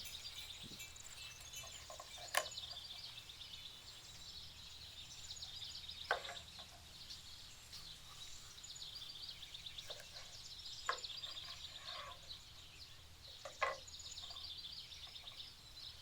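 Knife slicing bell peppers on a cutting board: four separate sharp chops a few seconds apart. Birds chirp steadily in the background.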